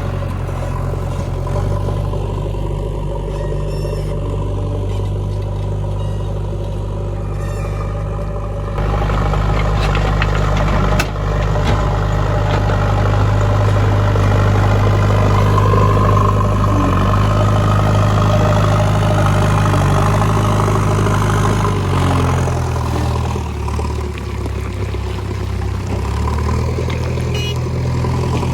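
JCB 3DX backhoe loader's diesel engine running steadily, getting louder about a third of the way in and easing back near the end, with a single sharp knock partway through.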